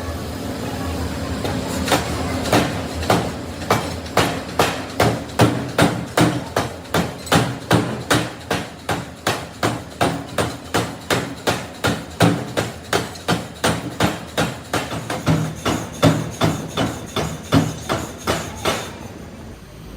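Hammer striking metal again and again, about two to three blows a second in an even rhythm, over a steady machine hum. The blows start about two seconds in and stop shortly before the end.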